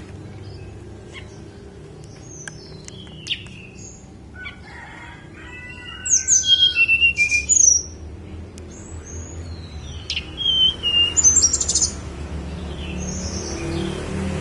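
Tledekan gunung songbird singing: two bursts of quick, high whistled notes and chirps, one about six seconds in and one from about ten seconds, over a steady low hum.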